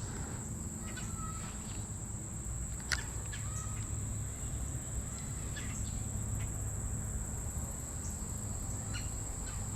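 Steady high-pitched insect drone over a low outdoor rumble, with a few faint clicks scattered through it, the sharpest about three seconds in.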